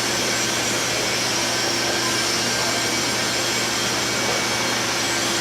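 Steady whirring machine noise with a constant low hum and hiss, unchanging throughout.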